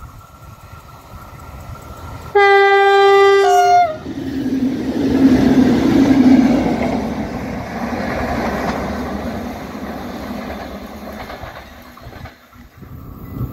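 A train's horn sounds one blast of about a second and a half, its pitch sagging as it cuts off. Then the train passes with a rumble of wheels on rail, loudest just after the horn and fading away.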